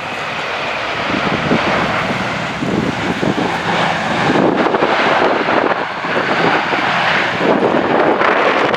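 Airliner engines during a crosswind landing, a steady rushing that grows gradually louder, with strong gusts buffeting the microphone.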